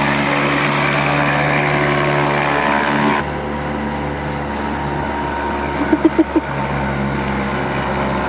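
Small boat's outboard motor running steadily at low speed, with a hiss over it that drops suddenly about three seconds in. About six seconds in, four quick short pitched sounds stand out above the motor.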